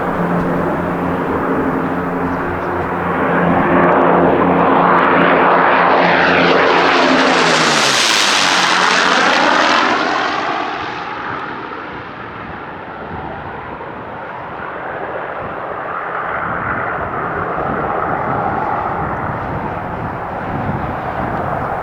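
De Havilland Mosquito's twin Rolls-Royce Merlin V12 engines at high power as the aircraft flies past. The note swells and then drops in pitch as it passes about eight seconds in, and fades away. A weaker swell of engine sound comes back later.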